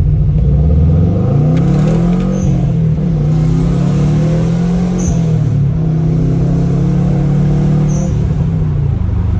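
2008 Subaru Impreza WRX STI's turbocharged flat-four engine and stock exhaust, heard from inside the car as it pulls away and accelerates. The engine note climbs, drops at a gear change about three seconds in, climbs again, drops once more about halfway through, then holds steady.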